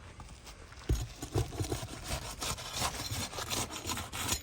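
A steel roofing flat bar scraping and rasping under an asphalt shingle as it is worked loose to be pried up. It starts about a second in, in irregular repeated strokes.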